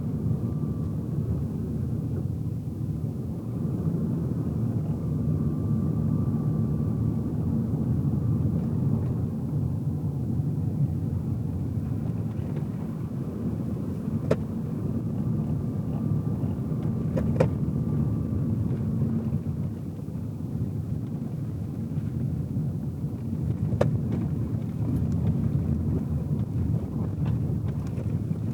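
Car driving, heard from inside the cabin: a steady low rumble of tyres and engine, with a few faint clicks along the way.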